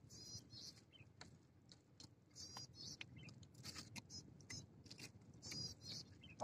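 Faint crunching and scattered clicks of a person chewing grilled shrimp.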